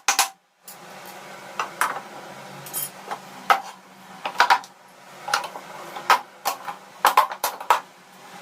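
Metal parts clinking and knocking against each other: about a dozen irregular sharp clacks over a low steady hum.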